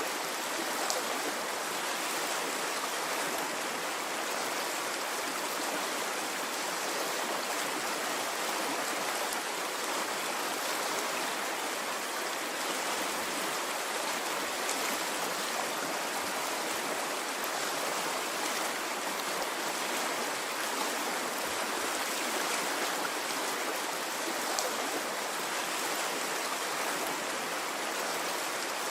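A water stream running steadily: an even, unbroken rush of flowing water with no rise and fall, and a few small splashes now and then.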